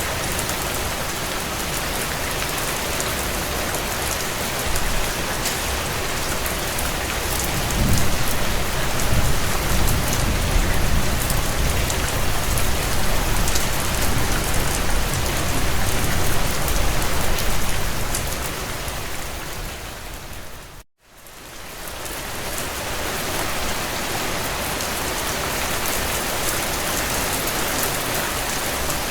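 Steady heavy rain on a window, with a low rumble of distant thunder rolling in about a quarter of the way through and dying away over ten seconds. About two-thirds of the way in the sound fades and cuts out for a moment, then the rain returns.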